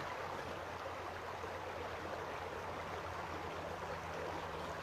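River water flowing and babbling over stones: a steady rushing with no breaks.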